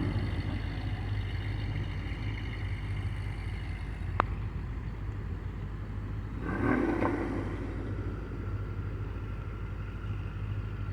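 Cars driving past on a street: steady engine and road noise, with a sharp click about four seconds in and one car passing louder about two-thirds of the way through.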